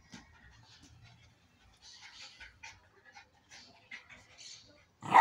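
Puppies at play: faint scuffling sounds, then one loud sharp bark right at the end.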